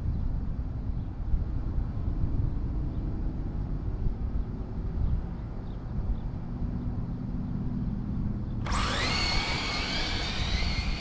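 A low rumble of wind on the microphone. Then, about three-quarters of the way in, the high whine of RC drag cars' electric motors starts suddenly, rises in pitch as the cars accelerate hard down the track, and holds.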